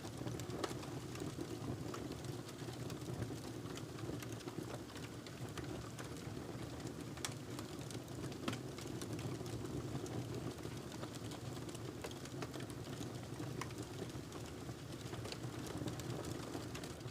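Wood fire crackling: irregular small pops and snaps over a steady low rush of burning.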